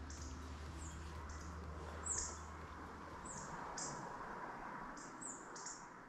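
Small songbird in woodland giving short, high, thin chirps, about one a second, the loudest about two seconds in, over a faint hiss of forest background.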